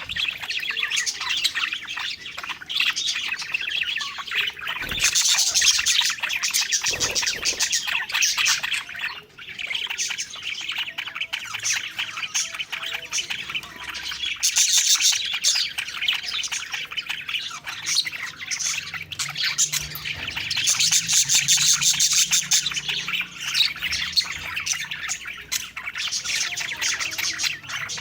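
A flock of budgerigars (parakeets) chattering and warbling together, with rapid chirps and occasional squawks that swell louder several times.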